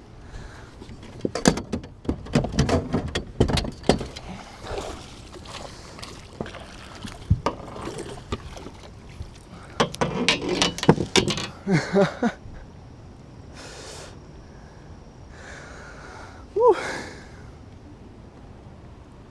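Splashing water and repeated knocks and clatter against a fishing boat as a hooked fish is fought and brought aboard, in two busy flurries with a quieter spell between.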